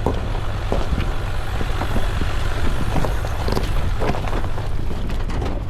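Jeep Wrangler climbing a rough mountain road, heard from inside the cab: a steady low engine and road rumble with frequent small rattles and knocks.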